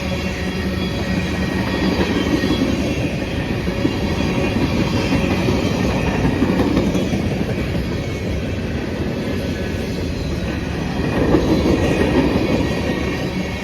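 Freight train cars rolling past on the rails with a steady, continuous rolling noise that swells briefly about eleven seconds in.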